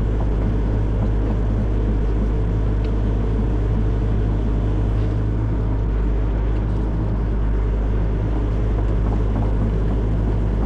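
Hitachi excavator's diesel engine running steadily, an unbroken low drone.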